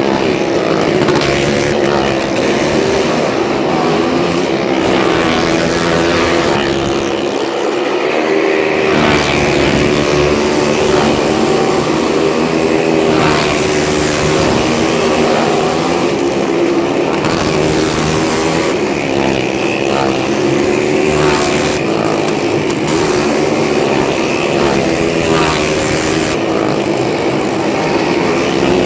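Several motorcycle engines running hard together as they circle the wall of a Well of Death, a loud, steady drone of overlapping engine notes.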